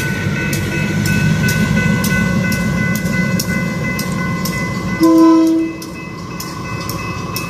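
Railroad crossing bell ringing steadily over the low rumble of a diesel switcher locomotive reversing through the crossing. About five seconds in the locomotive gives one short horn blast, the loudest sound here.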